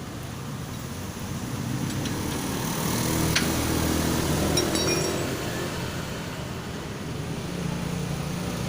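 A motor vehicle's engine rumbling, growing louder for a few seconds and then easing off, with a sharp click about three and a half seconds in and a short metallic clink about a second later.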